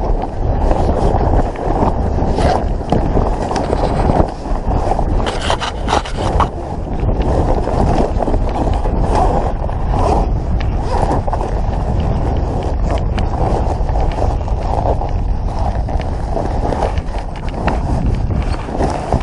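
Wind buffeting the microphone and water rushing along the hull of a sailboat under sail, with no engine running. A few light knocks or clicks sound a few seconds in.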